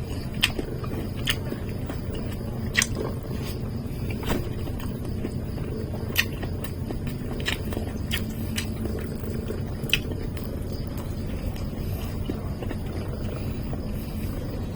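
A person eating, chewing with scattered sharp clicks or crunches about every second or two, over a steady low rumble.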